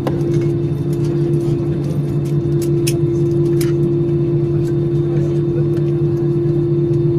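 Steady cabin drone of an Airbus A320-200's engines, with two unchanging hum tones and a few faint clicks and rattles.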